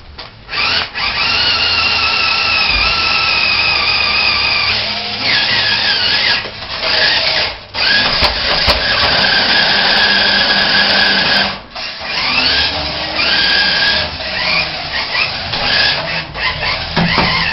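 Remote-control truck's motor and drivetrain whining at high speed, the pitch rising and falling as the throttle changes, cutting out suddenly several times when the throttle is let off.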